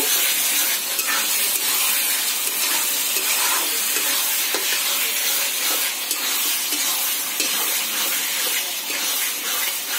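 Chicken and masala with mashed tomato sizzling steadily while frying in a kadai, with a spatula stirring and scraping through it now and then.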